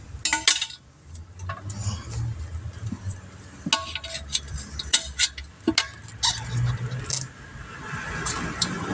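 Metal hand tools clinking and tapping against metal as a tire is worked on for a puncture repair, in scattered sharp strikes. A steady low rumble runs underneath.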